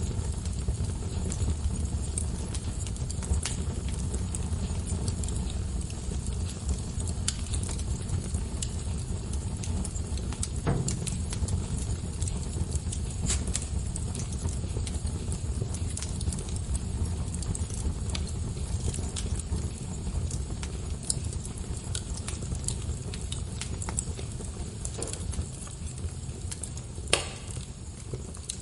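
Wood fire burning in a fireplace: a steady low rumble of flame with scattered crackles and snaps of burning wood, and a louder pop about eleven seconds in and another near the end.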